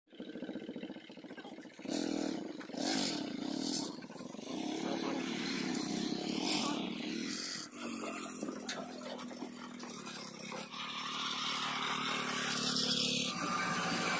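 Motor vehicle engine running, its pitch shifting up and down as it revs.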